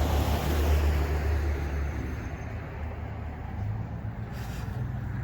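Road traffic: a low motor-vehicle rumble that fades away after about two seconds, leaving a fainter steady road noise.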